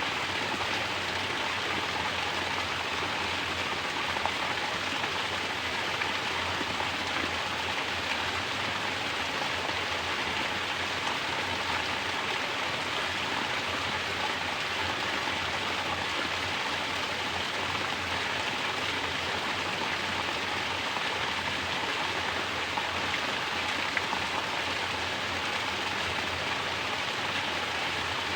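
Mountain spring water falling from a natural shower and splashing steadily, an even unbroken rush.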